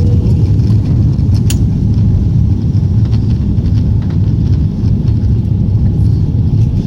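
Steady low rumble of an Airbus A340-300's jet engines.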